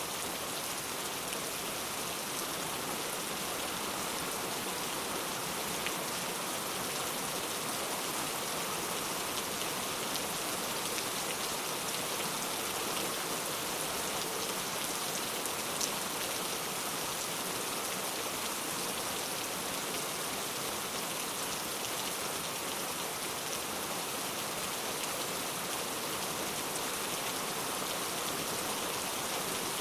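Heavy rain falling steadily in a dense, even hiss, with a few individual drops ticking out of it.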